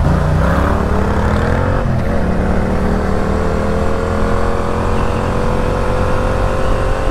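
Yamaha MT-07's parallel-twin engine pulling under way, its pitch rising as it accelerates over the first couple of seconds, then climbing slowly and steadily. Wind rush on the helmet-mounted microphone runs underneath.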